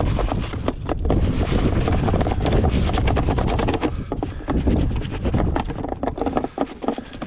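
Wind buffeting the microphone in a blizzard, a heavy low rumble with dense, rapid crackling throughout.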